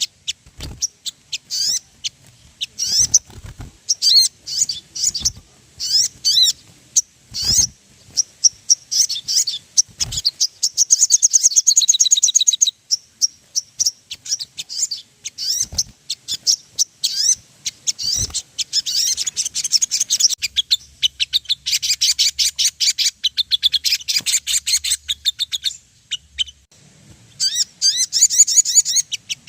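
Sogon (little spiderhunter) calling: a rapid series of sharp, high chirps broken by longer bursts of fast, high trilling, the excited "gacor" calling used to stir up other sogon.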